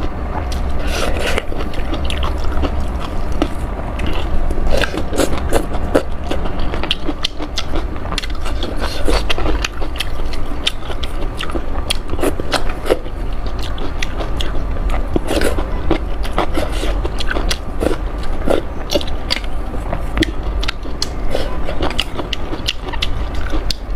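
Close-miked eating sounds: a person chewing and eating spicy rice noodles, a continuous irregular run of small clicks and smacks over a low steady hum.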